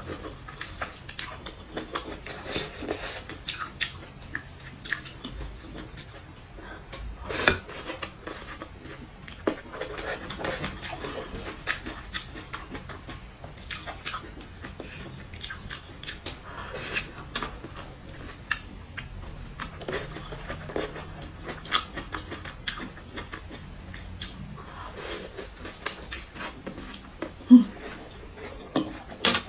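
Close-miked chewing and mouth sounds of a person eating grilled, spice-coated vegetable skewers: irregular wet smacks and clicks, with one louder sharp smack near the end.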